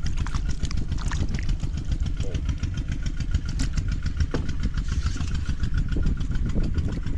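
A small engine running steadily at idle, a fast even chugging with a deep rumble.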